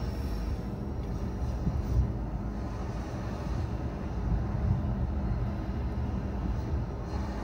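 A car driving: steady low rumble of engine and tyres on the road, with a brief bump about two seconds in.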